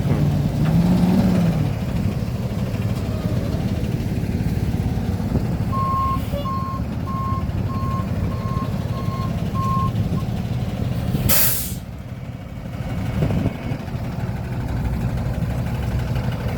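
Heavy truck engine running, with a brief rev about a second in. From about six seconds, its reversing alarm beeps steadily about twice a second for some four seconds. At about eleven seconds there is a short sharp hiss from its air brakes.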